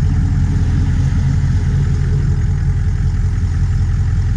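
2004 Ford F-250 Super Duty's 6.0-litre Power Stroke turbo-diesel V8 idling steadily.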